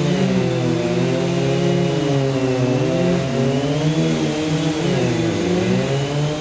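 Engines of tree-removal equipment running: a steady low engine note under a second one whose pitch wavers up and down and dips briefly about five seconds in.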